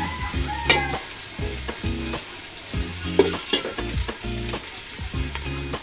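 Onions and bay leaves frying in hot soybean oil in a cooking pot, sizzling, with a spatula scraping and stirring against the pot again and again.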